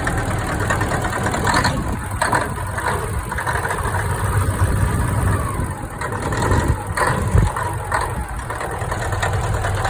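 Caterpillar 3408 turbocharged V8 diesel in a 1973 Kenworth truck idling steadily, with a brief swell in level about seven seconds in.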